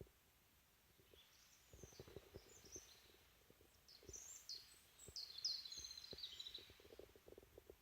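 Faint songbird calls: a few short high chirps about two seconds in, then a louder run of chirps and a rapid trill from about four to six and a half seconds. Soft low thumps sound underneath.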